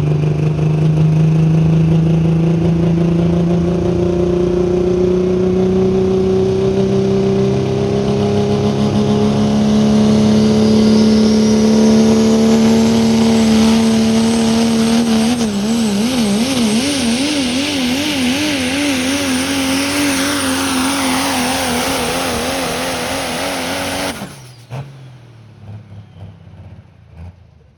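Truck engine under heavy load during a sled pull. Its pitch climbs slowly for about fifteen seconds, then surges rapidly up and down, and the sound drops away suddenly near the end.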